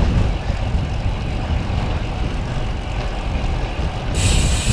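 Strong headwind buffeting the microphone of a moving bicycle as a steady low rumble, with a higher hiss coming in about four seconds in.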